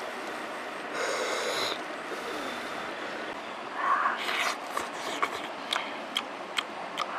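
A person eating grilled fish: a breathy rush about a second in, then, once the bite is taken, wet chewing with short sharp mouth clicks and lip smacks roughly every half second.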